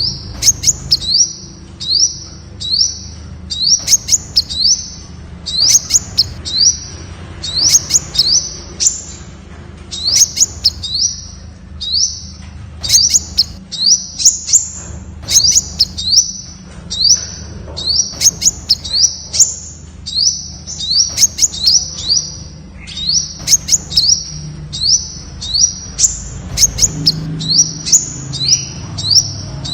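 Temminck's sunbird calling: a steady series of short, high, upward-sweeping notes, often in pairs or threes, about two to three a second, over a low hum.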